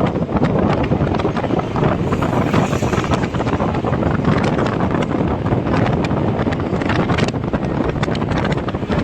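Wind blowing hard across the microphone: a loud, steady rumbling rush with constant crackles.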